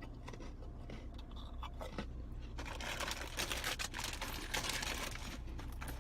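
Plastic wrapper of a package of peanut butter Oreo cookies crinkling as it is opened and handled: a few small clicks, then dense crackling from about halfway in.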